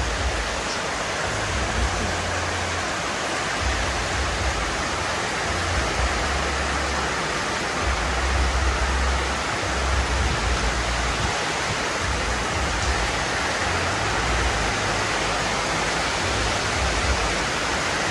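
Heavy rain falling steadily, a continuous hiss, with wind buffeting the microphone in irregular low rumbles.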